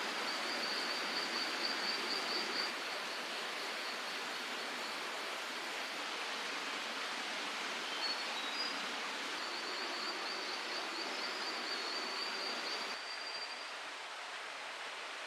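Steady rushing of flowing stream water, with a high, rapid trill from a small creature at the start and again from about ten seconds in.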